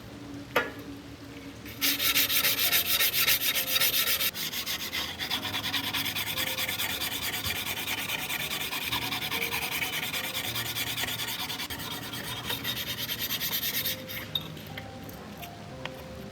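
Quick, rapid abrasive rubbing strokes, as of sanding or scouring a blade. A single click comes just before the strokes start about two seconds in, and the strokes stop a couple of seconds before the end.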